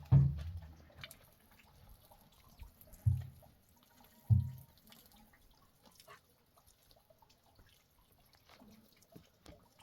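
Faint dripping and trickling of liquid, with a few short, dull low thumps, the loudest about three and four seconds in.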